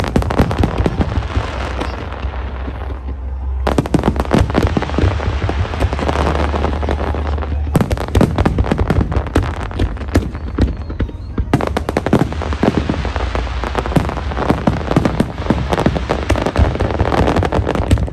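Fireworks display: rapid pops, bangs and crackling from bursting shells, coming in waves, with fresh dense volleys about 4, 8 and 12 seconds in.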